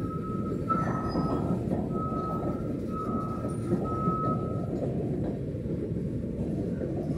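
Tarp-covered freight wagons of a slow-moving train rolling past: a steady rumble of wheels on rail, with a high wheel squeal that comes and goes for about the first five seconds.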